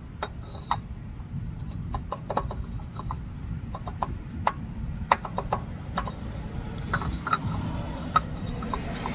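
Irregular light clicks and clinks of hand tools being handled, the oil filter housing wrench and socket knocking together, over a steady low rumble.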